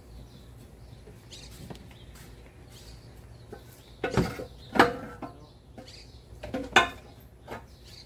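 A few sharp knocks and clatters of tools and parts being handled during engine work. Two come about four to five seconds in and two more near seven seconds; the loudest ring briefly.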